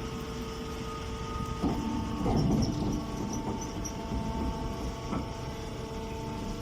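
Straw baler machine running: a steady hum with low rumble, a burst of clatter about two seconds in and a sharp knock near the end.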